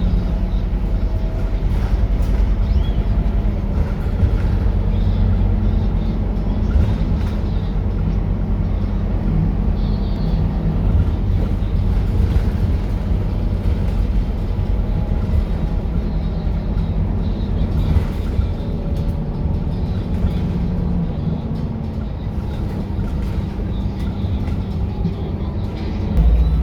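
Scania K230UB city bus's five-cylinder diesel engine and ZF automatic gearbox running under way, a steady low drone. About 21 s in the engine's hum drops away, and a short louder low rumble comes near the end.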